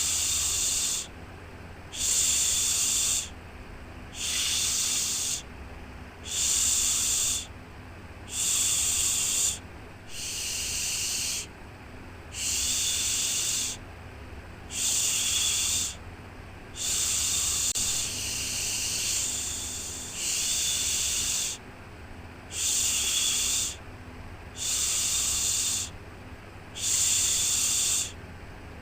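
Rhythmic 'shhh' shushing sound for soothing a baby: a hiss about a second long, repeated about every two seconds, over a faint steady low hum.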